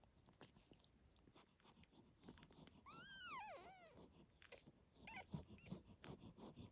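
Faint dog whimpering. A quick run of high-pitched squeaks, each rising and then falling, comes about three seconds in, and a shorter squeak follows a couple of seconds later, over light rustling.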